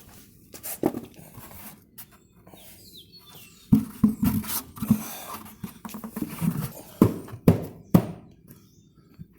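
Bee swarm trap being fitted together by hand: scraping and rustling with several sharp knocks, a run of clunks about four seconds in and three more near the end.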